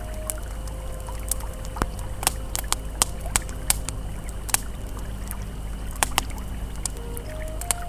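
Campfire crackling, with sharp irregular pops and snaps over the steady rush of a flowing river, and a soft held ambient tone underneath.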